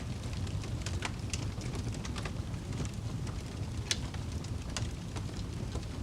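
Wood fire in a fireplace crackling: a steady low rumble of the flames with scattered sharp pops, the loudest about four seconds in.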